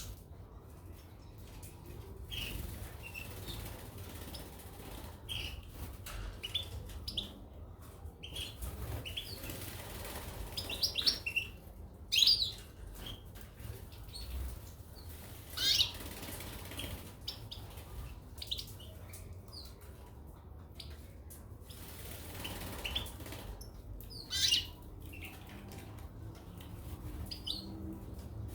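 Caged goldfinches and canaries fluttering their wings and giving short, high chirps, with a few louder calls scattered through.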